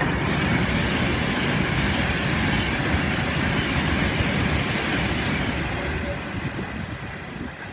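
Class 390 Pendolino electric express train passing through the station at speed: a loud, steady rushing of wheels and air that fades over the last couple of seconds.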